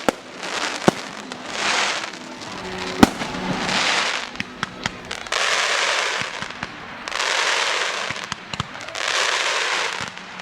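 Fireworks going off in a display: a run of hissing, crackling bursts, each about a second long, with scattered sharp bangs among them and the loudest bang about three seconds in.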